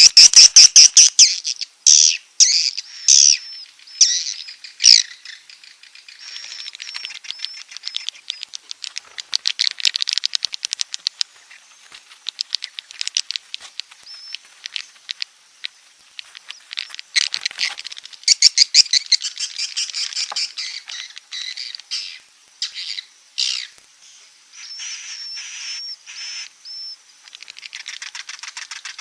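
Swiftlets calling: dense, rapid twittering and buzzy chirping trills, loudest in the first few seconds. It is a swiftlet roosting lure call (suara walet inap), the kind played in swiftlet houses to attract birds to stay.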